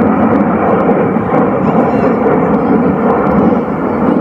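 Steady roar of a jet aircraft's engines during an air show display, heard at a distance.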